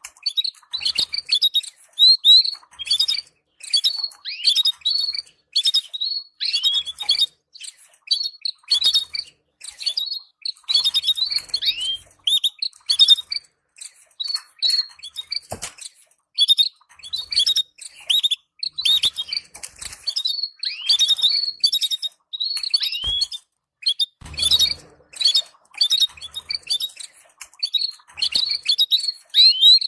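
Canaries chattering: quick runs of short, high, downward-sweeping chirps repeated in clusters every half second or so, the kind of excited twitter played to stimulate breeding pairs. A few soft knocks and a thump sound through it.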